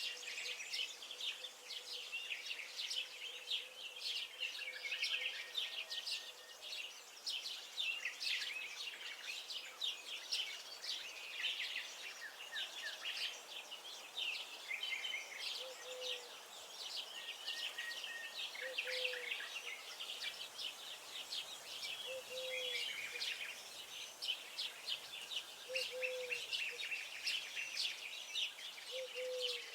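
Many songbirds chirping and singing at once, a dense mix of quick high notes. From about halfway a short, lower call repeats roughly every three seconds.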